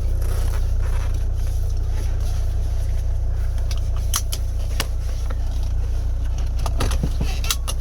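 1984 Mercedes-Benz 300D's five-cylinder diesel engine idling steadily just after a cold start, heard from inside the cabin. A few light clicks sound around the middle and near the end.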